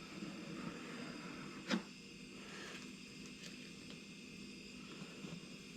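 Faint handling of small wooden pieces, with one sharp click about two seconds in and a few light ticks after.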